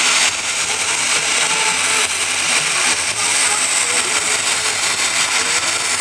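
Military aircraft engine noise, a steady high-pitched hissing roar that holds constant throughout.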